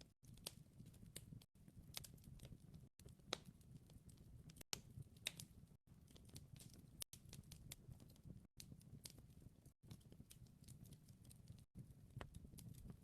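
Wood fire crackling: faint, irregular sharp pops and ticks over a soft low rumble, with brief silent dropouts every second or so.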